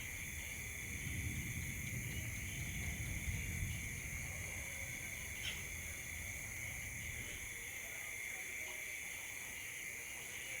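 Steady chorus of night insects, crickets or cicadas, holding a high even drone, with a low rumble underneath during the first few seconds.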